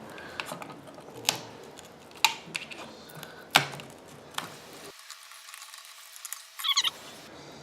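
Small plastic drone parts and hand tools being handled and pried at: a few sharp clicks and light scraping, with a short squeak about two-thirds of the way in.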